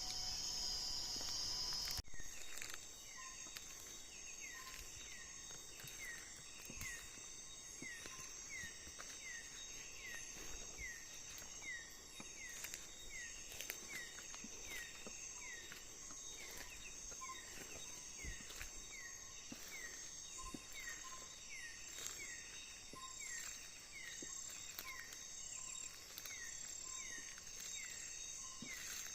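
Tropical forest at night: a steady drone of insects such as crickets, with a short falling chirp repeating just under twice a second.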